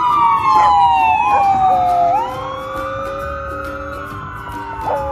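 A siren wailing: loud pitched glides, a long falling sweep over the first two seconds, then rising arcs and a steadier held tone, several tones overlapping.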